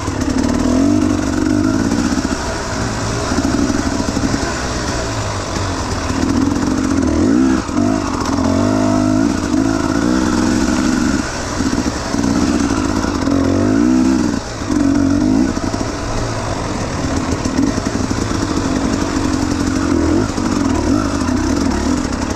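Enduro dirt bike engine running under load, its revs rising and falling as the throttle is opened and eased off again and again, with a few brief drops in between.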